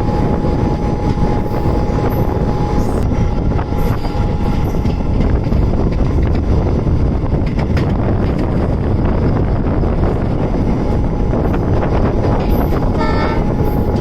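Indian Railways passenger train running, heard from on board: a steady, loud rumble and rattle of the coach and wheels on the rails.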